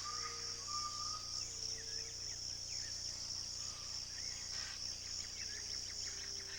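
Wetland nature sound: a steady high-pitched drone of insects, with scattered short bird chirps and a few brief held whistle-like notes over it.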